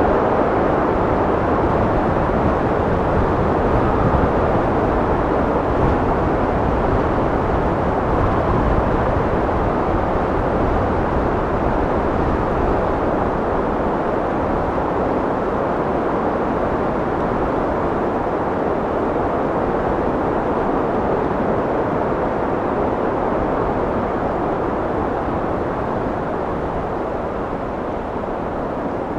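Wind blowing steadily, a deep rushing noise with no gusts or whistles, easing off slightly near the end.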